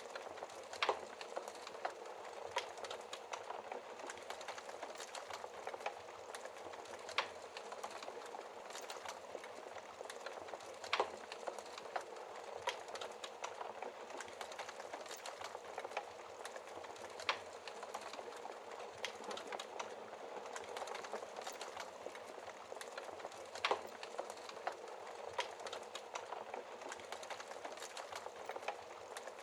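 Wood fire burning in a fireplace: a steady soft hiss of flames with irregular crackles and sharper pops from the logs, a handful of louder snaps scattered through.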